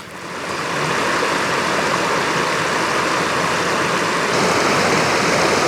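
A creek running: a steady rushing of water that swells in over the first second and turns a little louder about four seconds in.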